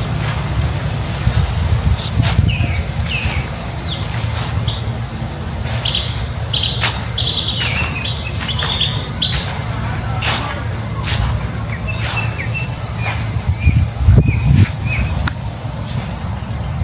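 Several songbirds chirping and trilling with repeated short calls, over a steady low rumble, with a brief louder low thump about 14 seconds in.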